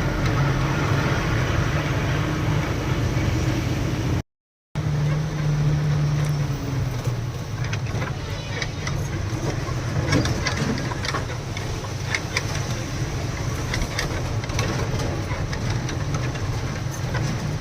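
Lorry engine running steadily, heard from inside the cab while driving a potholed road, with short rattles and knocks from about eight seconds on. The sound cuts out for half a second about four seconds in.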